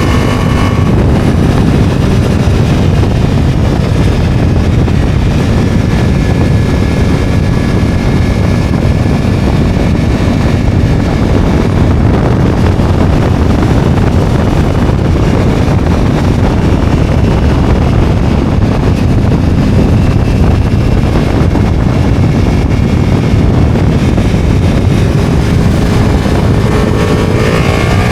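Ducati motorcycle running at speed, buried under loud wind rushing over the microphone, with the engine note climbing near the end as it accelerates.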